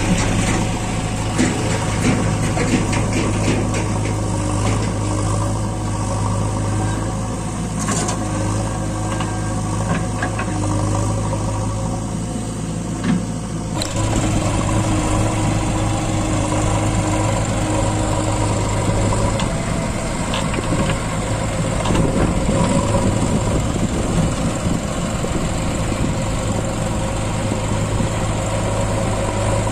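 Heavy diesel engine running steadily with a low hum, its sound shifting about halfway through.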